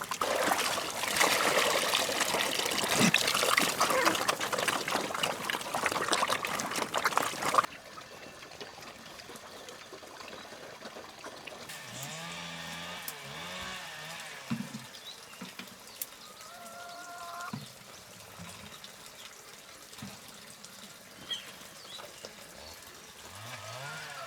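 Water pouring or splashing steadily for about eight seconds, then cut off abruptly. Afterwards it is much quieter, with a few short wavering calls.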